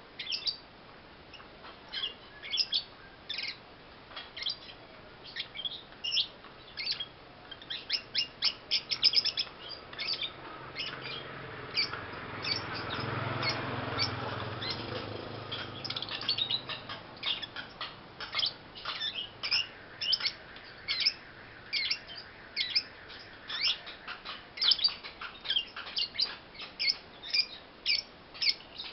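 Young lovebird chirping: short, high chirps again and again, often in quick runs. A low rumbling sound swells up and fades away in the middle.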